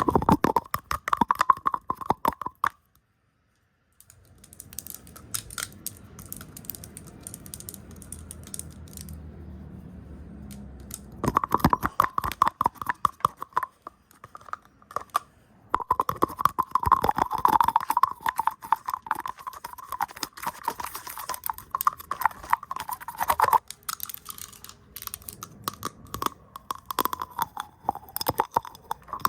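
Fast, chaotic ASMR tapping and brushing right on the microphone, heard as dense rapid clicks and scratchy bristle noise. It cuts out completely for about a second around three seconds in, turns to a softer, lower rustle until about eleven seconds, then the rapid tapping returns with a brief lull near fifteen seconds.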